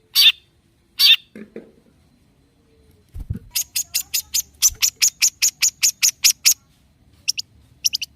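Long-tailed shrike singing: two harsh high calls, then a fast chattering run of sharp notes, about five a second, and a few short notes near the end. A low thump comes about three seconds in.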